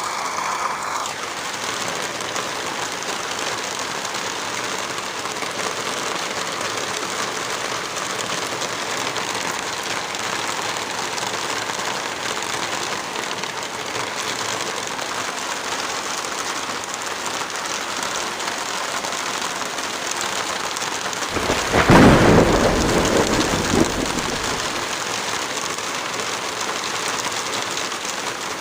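Heavy rain falling steadily, with one thunderclap about three-quarters of the way through that rumbles for about three seconds before fading back into the rain.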